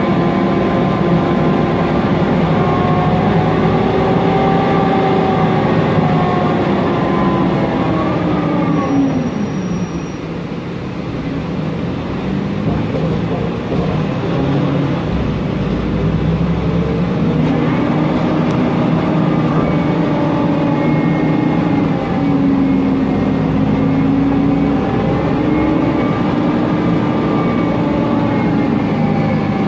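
Mercedes-Benz Conecto NGT city bus heard from on board: the Voith DIWA automatic transmission whining over the CNG engine and its loud cooling fan. The whine falls away as the bus slows about ten seconds in. It rises again as the bus pulls off about halfway through.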